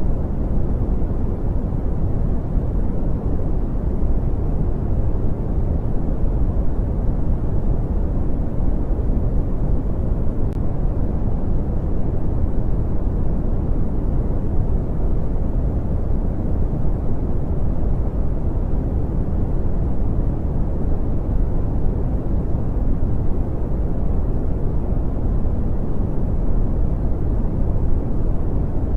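Brown noise: a steady, deep rumbling hiss with most of its weight in the bass and little above the low treble, unchanging throughout.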